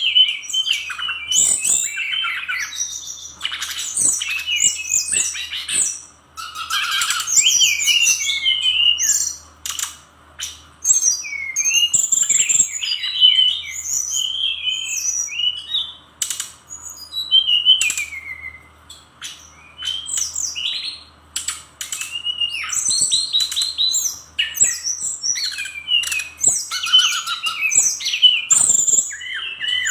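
Fulvous-chested jungle flycatcher (Cyornis olivaceus) singing a fast, varied song of high chirps, trills and whistled notes. The song comes in rapid phrases a few seconds long, with short breaks between them, and sharp clicks are scattered through it.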